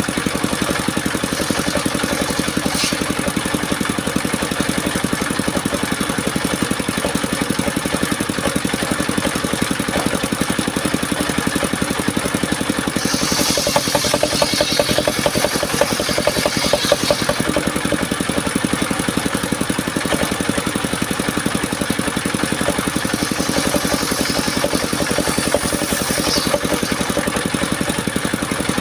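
Engine-driven circular sawmill running steadily with a rapid, even throb. Twice, about halfway through and again near the end, a higher hiss rises for a few seconds as the blade cuts through soft mahogany.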